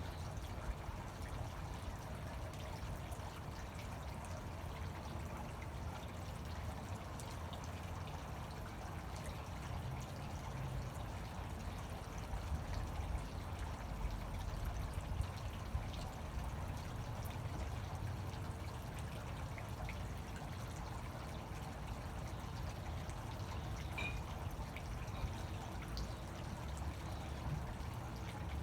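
Water from a fountain splashing and pouring steadily into its basin, a continuous even rush with no change.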